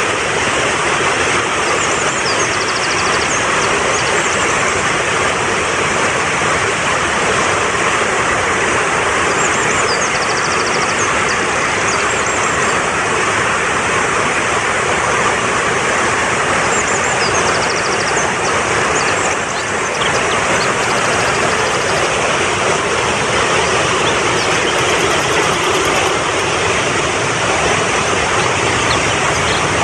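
Fast-flowing mountain stream rushing steadily, with songbirds chirping over it in short high calls every several seconds.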